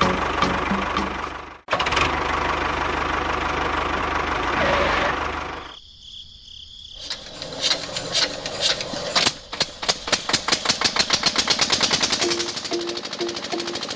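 Small engine running noisily and cutting out briefly. It then fires in separate strokes that speed up into a fast, steady run.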